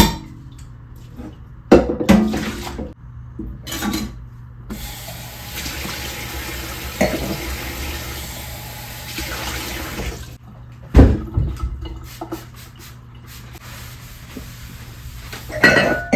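Kitchen sink tap running for about five seconds, with sharp knocks and clunks of things being handled and set down before and after it.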